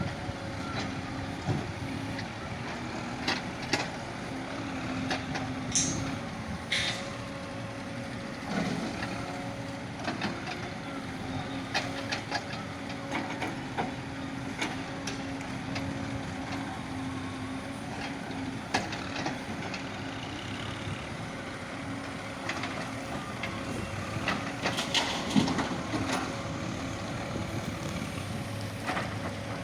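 JCB excavator's diesel engine running under working load, its pitch rising and dipping slightly, with scattered clanks and knocks.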